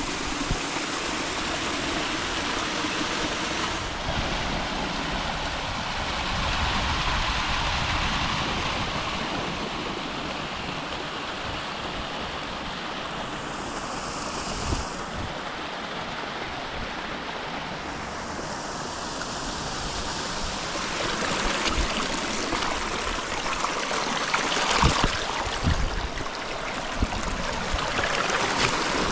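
Stream water running with a steady rushing sound. Short low thumps cluster near the end.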